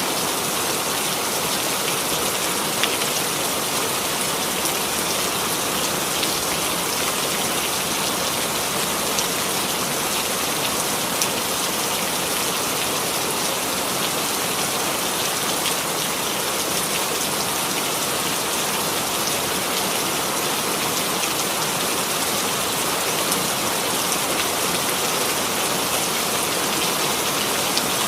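Steady rainfall, with an occasional sharper drop tick standing out.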